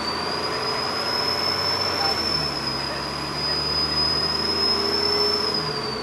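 Dennis Trident double-decker bus's turbocharger whistling under power: a high whistle that rises in the first half second, holds steady and starts to fall near the end, over the diesel engine running.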